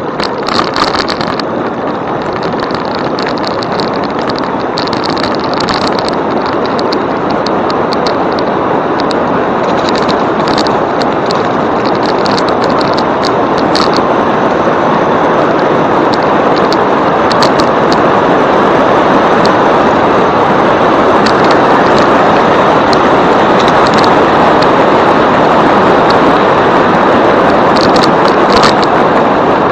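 Steady rushing noise of riding an e-bike: wind on the microphone mixed with tyre noise, slowly getting louder, with scattered light ticks.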